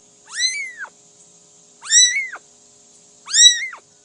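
A cat meowing three times, about a second and a half apart, each meow rising and then falling in pitch.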